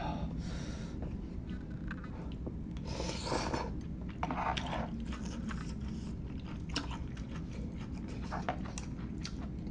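Close-miked eating sounds of instant Szechuan hot pot noodles: chewing with many small wet clicks and smacks, and a few longer rushes of noise about three and four and a half seconds in, over a steady low background hum.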